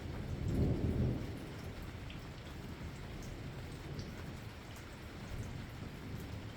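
Steady rain with scattered drips, and a low rumble of thunder that swells and fades about a second in.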